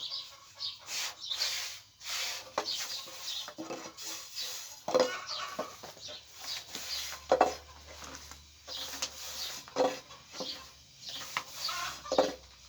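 Knocking and rubbing from hand work at a wooden surface and pots, with a sharper knock about every two and a half seconds and chickens clucking in the background.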